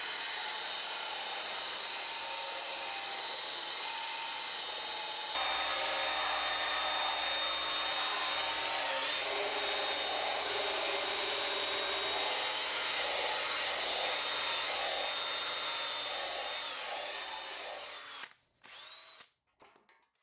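Power tool spinning a fine brush against the steel guitar body: a steady high motor whine over a hissing scrub of bristles on metal, finishing the surface after grinding. It steps louder about five seconds in and dies away near the end.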